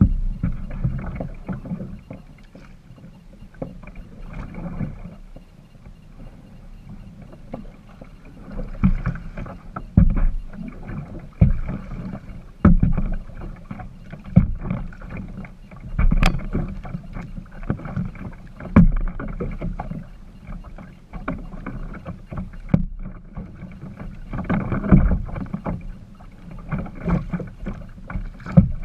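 Kayak being paddled: paddle blades dipping and splashing at an irregular pace of about one stroke every second or two, with sharp knocks and thumps against the boat between them.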